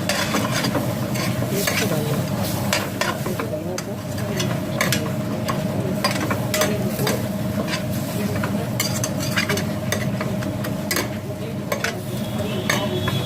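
Food sizzling in a pan while it is stirred, with frequent sharp clicks and scrapes of the spoon against the pan. A steady low hum runs underneath.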